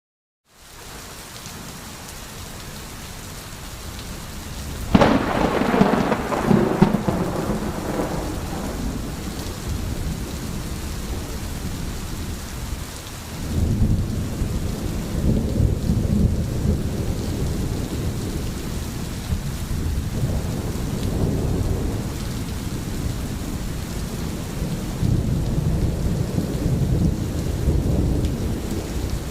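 Steady rain with thunder. A sharp thunderclap comes about five seconds in and rumbles away over several seconds, then long low rolls of thunder swell twice under the rain.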